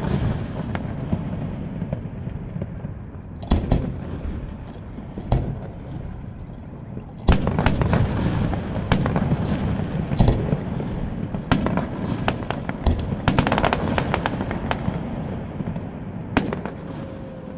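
Aerial fireworks shells bursting overhead: a few separate booms, then a dense run of bangs and crackling through the middle, with one more boom near the end.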